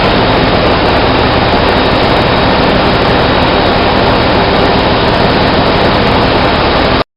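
Loud, steady drone of running machinery with a low hum, cutting off suddenly near the end.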